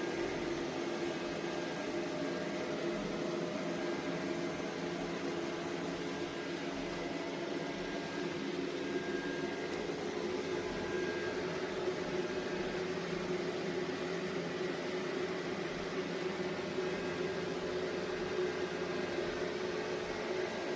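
ECOVACS Deebot T50 Omni robot vacuum running steadily: an even motor and fan hum with a faint high whine above it.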